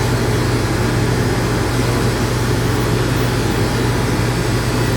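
Electric dog grooming clippers with a #10 blade running with a steady low hum while trimming a dog's ear.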